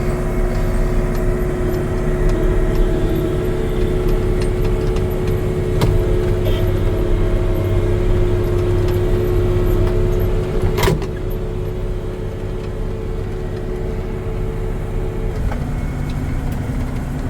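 A 1980-era swather running steadily while cutting, a low engine hum with a steady whine above it. About 11 seconds in there is one sharp click, after which the machine runs a little quieter. Near the end the whine gives way to a lower steady tone.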